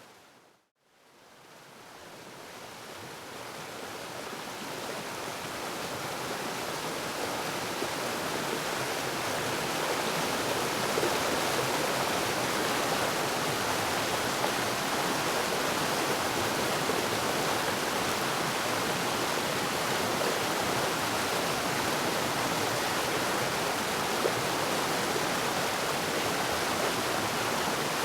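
Waterfall rushing as a steady, even hiss. It fades out to silence within the first second, then fades back in and grows steadily over about ten seconds before holding level.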